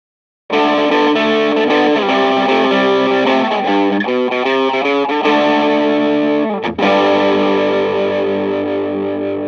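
Electric guitar played through a Valeton Coral Tube Engine, a Tube Screamer-style overdrive pedal, giving a warm overdriven tone. Distorted chords and riffs start about half a second in, break off briefly about two-thirds through, and end on a chord left ringing and slowly fading.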